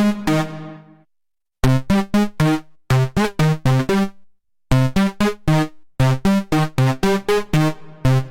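Waldorf Pulse 2 analog monosynth playing a preset as a rhythmic sequence of short, plucky low notes with sharp attacks and quick decays, about three to four a second. The line drops out twice for about half a second.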